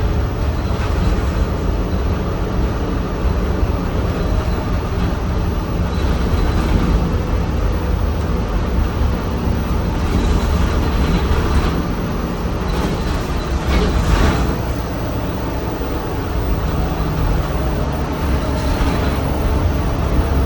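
Steady low engine and road rumble inside a moving city bus, with a few short noises about halfway through.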